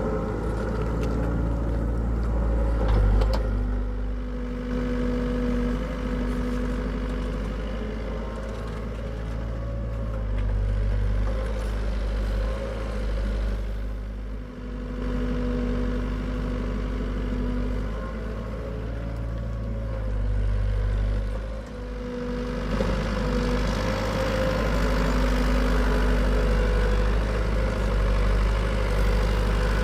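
Hitachi EX75UR excavator's diesel engine running steadily while it digs, its tones rising and falling as it works. There is a brief knock about three seconds in, and the machine runs louder for the last quarter or so.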